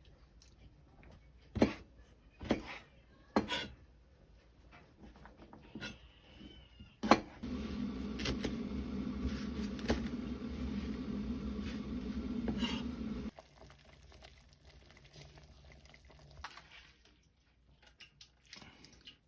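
Kitchenware clinking and knocking a few times, then about six seconds of a steady rushing noise that cuts off suddenly.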